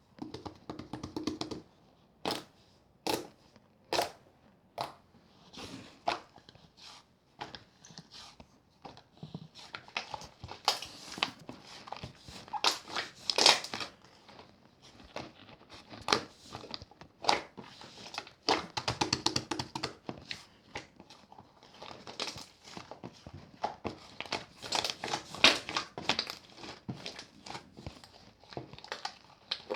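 Clear slime worked by hand: sharp sticky pops about once a second at first, then a dense run of crackling and squishing as it is stretched, folded and poked.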